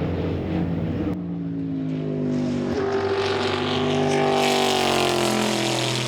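Corvette C5-R race car's big V8 engine running at speed. The sound changes abruptly about a second in, then the engine note climbs for a couple of seconds and eases slightly.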